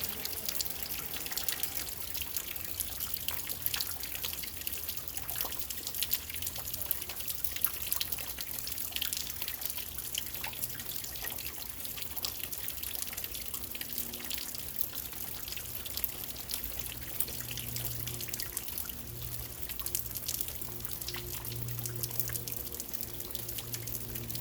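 Rain falling steadily: a dense hiss with many small drops ticking close by, and water trickling.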